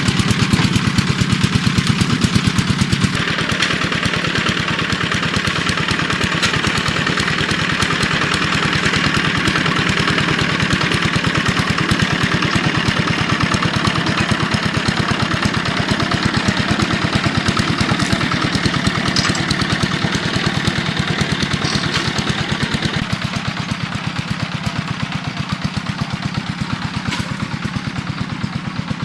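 A small engine running steadily with an even, rapid beat; its note shifts about three seconds in and again near the end.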